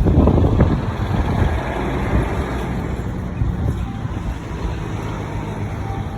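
Wind buffeting the microphone over the rumble of road traffic. The gusts are strongest in the first second or so, then ease into a steadier rumble with a low hum.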